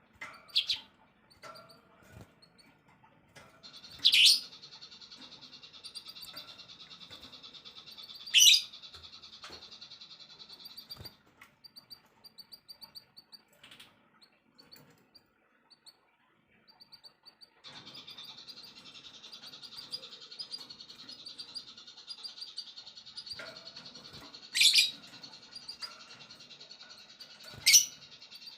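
Small songbirds chirping and trilling: a dense, high, buzzing trill runs in two long stretches with a quieter gap of sparse chirps between them. Four loud, sharp single calls stand out over it.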